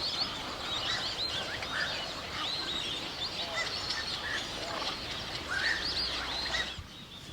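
Many birds calling at once: a busy chorus of short, overlapping high chirps and squawks that drops away about a second before the end.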